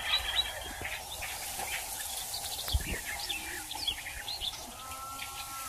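Small birds chirping repeatedly, quick high chirps throughout, with a short held call near the end.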